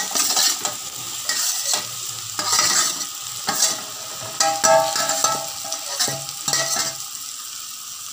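Ground chana dal being tipped and scraped from a plate into hot desi ghee in an aluminium kadhai, the ghee sizzling as it takes the dal, with repeated scraping strokes of metal on metal. This is the start of roasting the dal in ghee.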